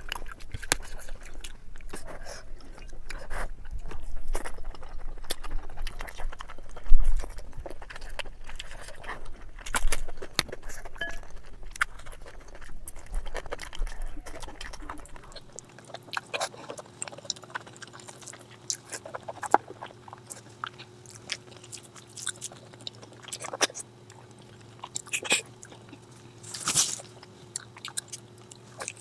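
Close-up eating sounds: chewing and crunching with irregular sharp bites and clicks.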